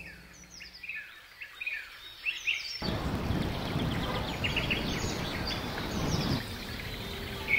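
Birds chirping in many quick, falling notes, joined about three seconds in by a louder steady rushing noise that cuts off abruptly about three and a half seconds later.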